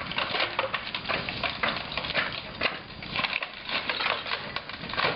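Wood and debris being broken up in demolition: a dense, irregular run of cracks, knocks and splintering crunches.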